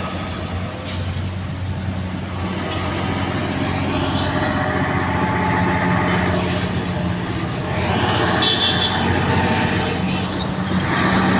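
Heavy truck engine running steadily, with road-traffic noise swelling about four seconds in and again later.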